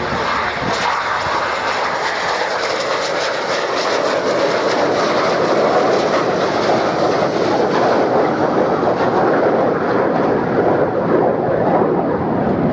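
Red Arrows' BAE Hawk T1 jets flying past in formation: a steady rushing jet roar that slowly builds, loudest about halfway through.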